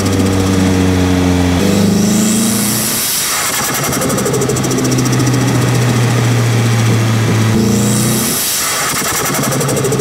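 Turbocharged SR20DET engine of a Nissan Silvia S15 with a T28 turbo, heard close at the turbo while driving: the engine note steps in pitch twice, and twice a rush of turbo air noise, hiss and flutter, swells up and fades.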